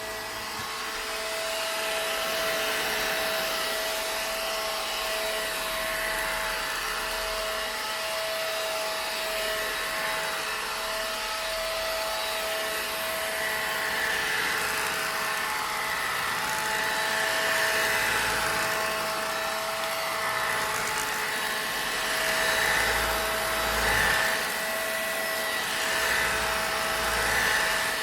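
Vacuum cleaner running continuously, with a constant motor whine under a steady rush of air. The airflow noise swells and fades every few seconds.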